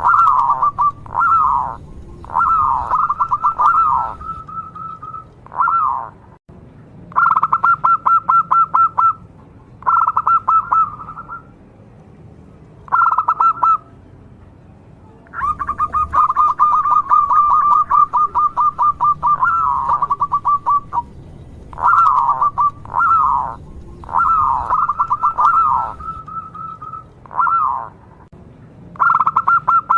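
Zebra dove (perkutut) cooing in repeated phrases. Each phrase has a few quick falling notes and a fast trilled coo held at one pitch for a second or two, with short pauses between phrases.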